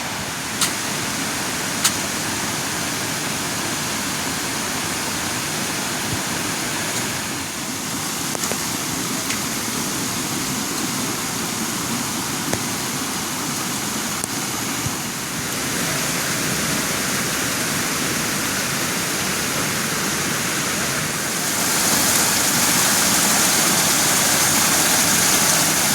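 Steady rushing of water, with two sharp ticks about half a second and two seconds in. The tone shifts a few times, and the sound grows a little louder and brighter near the end.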